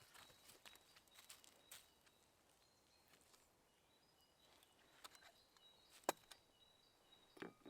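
Near silence: faint outdoor quiet with scattered soft clicks and knocks, a sharper click about six seconds in and another near the end, and faint short high-pitched chirps.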